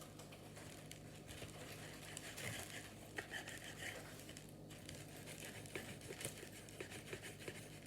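Faint crinkling and scattered small ticks of bird-chop ingredients being handled by hand, over a steady low hum.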